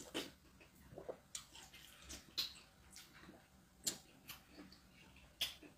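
Close-up eating sounds: a person chewing chicken and fufu, with about a dozen short, sharp mouth smacks and clicks coming at an irregular pace.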